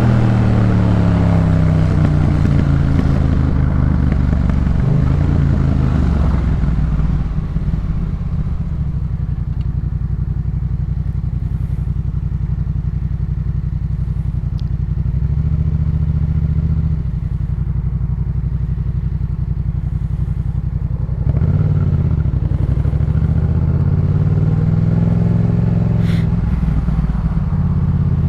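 2018 Yamaha MT-07's 689 cc parallel-twin through a Jeskap K4 full aftermarket exhaust, ridden. Its note falls as the throttle comes off at the start, settles to a steady low drone through the middle with a brief lift, then climbs and eases back again near the end.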